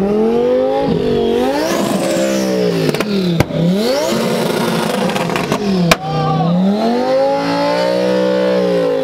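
A high-performance car engine revved again and again with the car standing still, each rev climbing, holding briefly and dropping back. A few sharp pops from the exhaust come as the revs fall.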